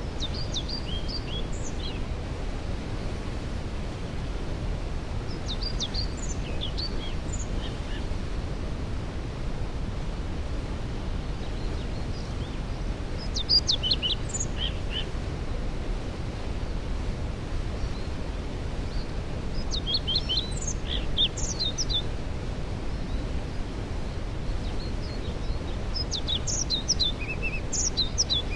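Steady rushing of a waterfall, with songbirds singing short, chirpy phrases over it about five times, every few seconds.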